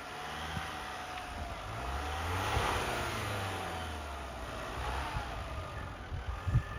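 Mitsubishi L200 pickup's engine revving under load, its pitch climbing to a peak a little before halfway and then falling away.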